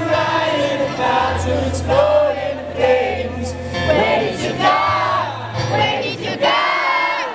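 Live rock music: a band playing with sung vocals over sustained bass notes and regular cymbal hits, with crowd noise underneath.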